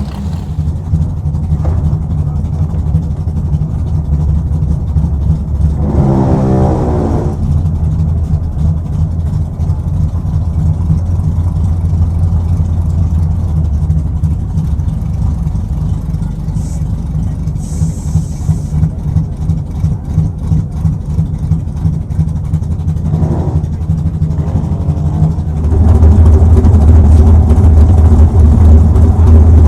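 Twin-turbo 5.3 L LS V8 running at the drag strip: a steady low engine note with brief revs about six seconds in and again near twenty-three seconds, then noticeably louder from about twenty-six seconds in.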